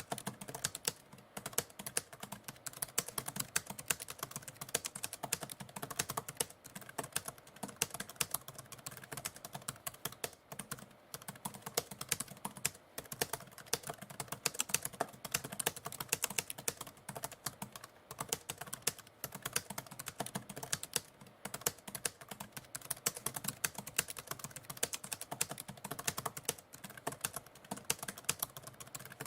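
Typewriter keys clacking in a continuous, fast run of typing, several keystrokes a second.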